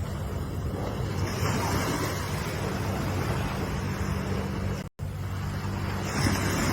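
Ocean waves washing in a steady rush of surf, swelling again near the end. The sound drops out for an instant about five seconds in.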